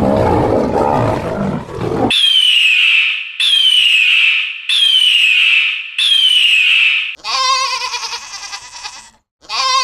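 A sequence of animal calls: a deep, rough roar that stops abruptly about two seconds in, then four identical high calls, each a little over a second and falling in pitch, then a wavering bleat starting near the end.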